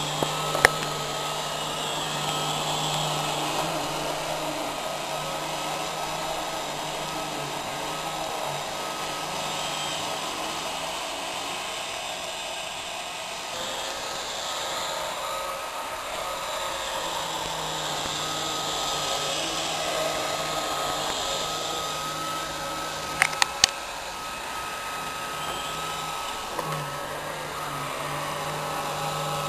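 Roomba robot vacuum running steadily, a whirring suction motor with a thin steady whine and a low hum that comes and goes. A sharp click sounds near the start, and a quick run of three clicks comes about three-quarters of the way through.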